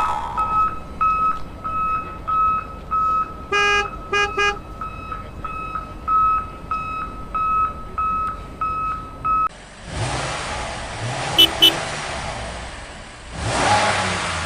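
Electronic vehicle beeper sounding a single high beep about twice a second, like a reversing alarm, with a short burst of horn toots about four seconds in. Near ten seconds the beeping stops and a loud, rushing vehicle engine sound takes over, swelling again near the end.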